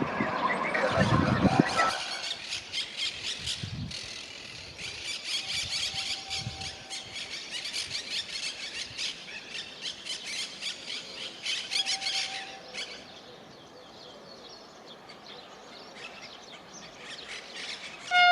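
Train squealing as it moves along the platform track, a high-pitched screech pulsing many times a second. It dies away about 13 seconds in.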